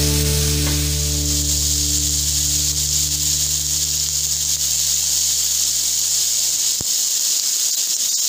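Tiger prawns sizzling in hot oil in a frying pan, a steady hiss. Underneath, a held low music chord fades out about seven seconds in.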